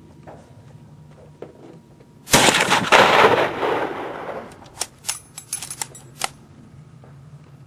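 A 30-40 Krag rifle shot detonates a pound of Tannerite: one sudden heavy blast about two seconds in, rumbling away over the next two seconds, followed by a scatter of sharp cracks and snaps.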